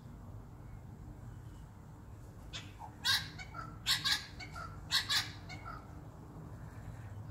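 About half a dozen short, raspy bird calls in quick succession, starting about two and a half seconds in.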